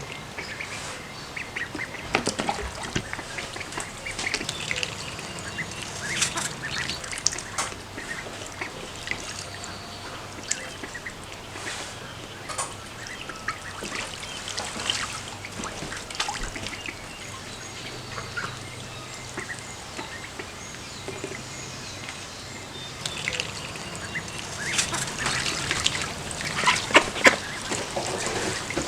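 Ducklings peeping and ducks quacking: a steady stream of short, high calls that gets busiest near the end.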